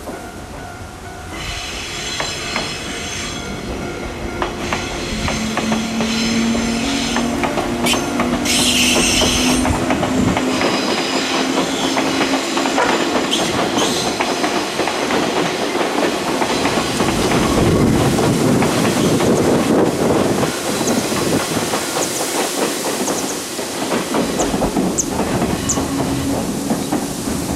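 Electric passenger train passing close by, its wheels clattering over rail joints with brief squeals. The sound builds over the first several seconds, stays loud through most of the passage, and drops away near the end.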